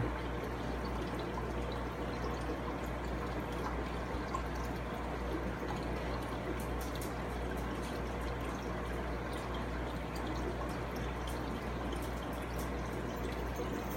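Steady trickling and dripping of aquarium water, with faint scattered drips and a low steady hum underneath.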